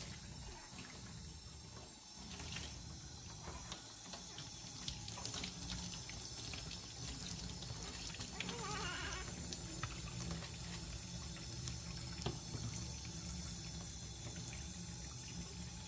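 Bath water splashing and trickling as a newborn baby is washed.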